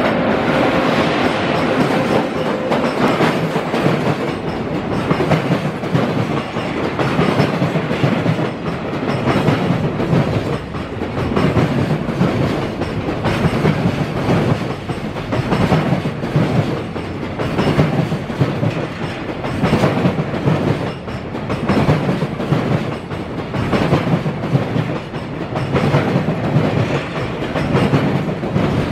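Container freight train hauled by an EF210 electric locomotive passing through: the wagons' wheels clatter over the rail joints in a repeating clickety-clack with a steady rolling rumble.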